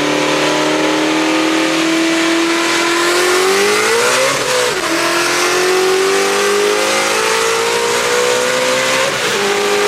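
Sports car engine accelerating hard, its note climbing steadily through the revs. It drops sharply at an upshift about four and a half seconds in, then climbs again to a second upshift near the end.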